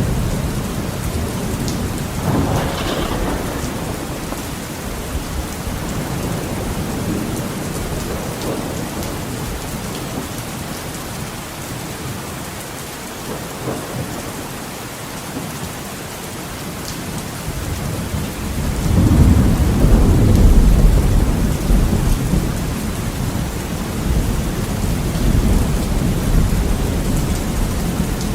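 Heavy rain falling steadily, with thunder rumbling. A short swell of thunder comes a couple of seconds in, and a bigger low roll of thunder builds about two-thirds of the way through, peaks, then slowly fades back under the rain.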